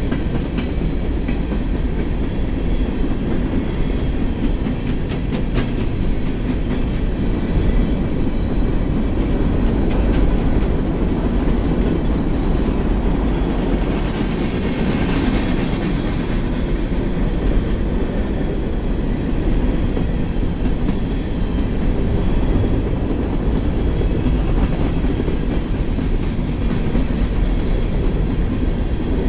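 Empty steel coal hopper cars of a long freight train rolling past at steady speed, their wheels running continuously on the rails with occasional faint clicks.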